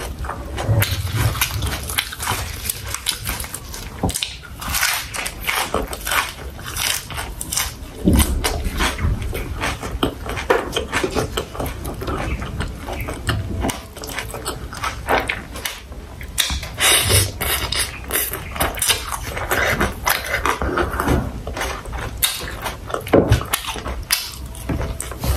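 A person eating sausage, rice and vegetables close to the microphone: chewing and mouth clicks come in quick, irregular succession.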